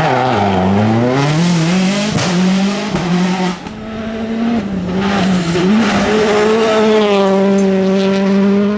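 Rally car engine at full effort, its revs falling and climbing several times with a couple of sharp cracks about two and three seconds in, then held at steady high revs for the last few seconds.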